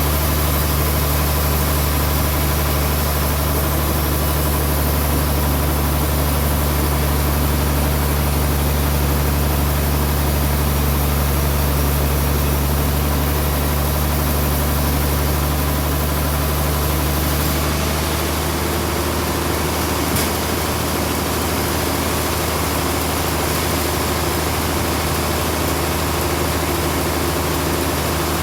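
Band sawmill running steadily with a deep, continuous machine hum. About two-thirds of the way through the sound shifts slightly: the lowest hum eases and a higher drone comes in.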